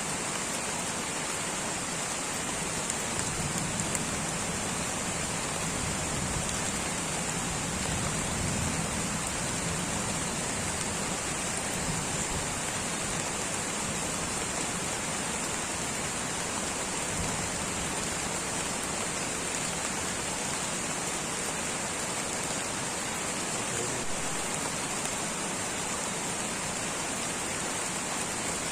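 Light rain falling steadily in a tropical rainforest, an even patter with a steady high-pitched hiss above it.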